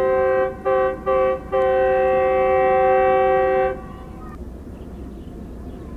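Air horn of a GE U40 diesel-electric locomotive leading a coal train, sounding several tones at once: a blast broken by two brief gaps, then held until it cuts off a little under four seconds in, leaving a steady low rumble.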